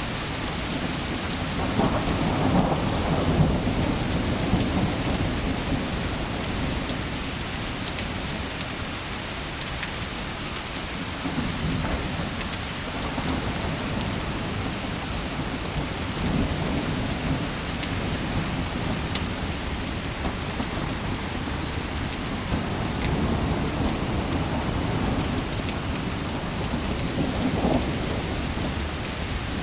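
Steady heavy rain, with low rolling thunder that swells and fades several times, and occasional faint sharp ticks.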